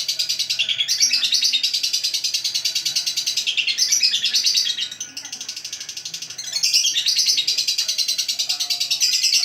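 Lovebird giving its long 'ngekek' call: a fast, shrill chattering trill with a short lull about five seconds in.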